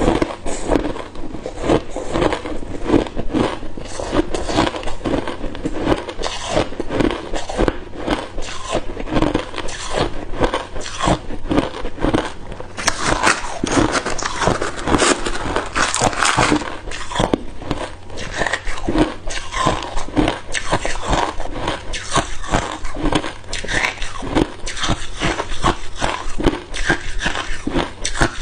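Hard cube ice being bitten and chewed close to the microphone: a dense, continuous run of loud crunches and cracks.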